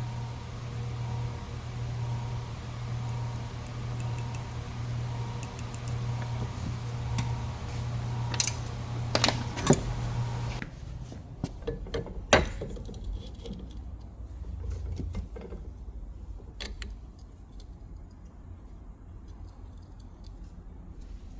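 A steady low electric hum from a running machine cuts off suddenly about halfway through. Just before and after the cut come several sharp metallic clinks and clicks, like small metal parts being handled, followed by fainter handling noises.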